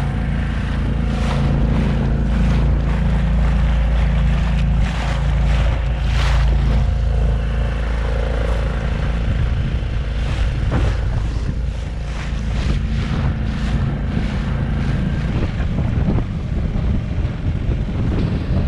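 Small 4 horsepower outboard motor running steadily, pushing a dinghy along, with wind buffeting the microphone and water rushing past the hull. The engine's drone fades about three-quarters of the way through, leaving wind and splashing.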